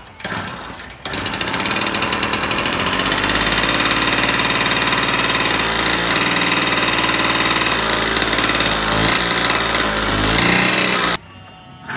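Yamaha YB50 two-stroke engine catching about a second in and running steadily at a fast, even beat, then cut off suddenly near the end.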